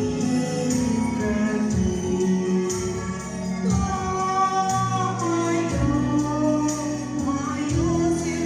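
A slow song sung over instrumental accompaniment, the voice holding long notes that bend and slide between pitches.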